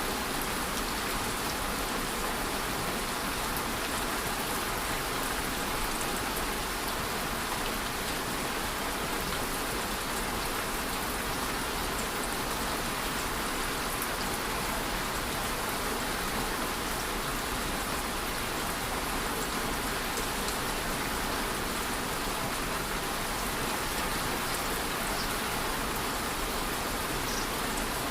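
Steady rain falling, an even hiss of many drops with a few faint, separate drop ticks near the end.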